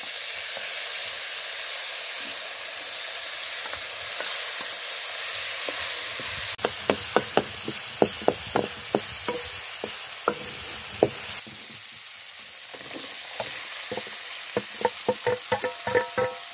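Tomatoes and chilli sizzling loudly in hot oil in a karahi, while a wooden spoon stirs and knocks against the pan. Near the end a quicker run of ringing taps comes as the spoon scrapes sliced potatoes off a steel bowl into the pan.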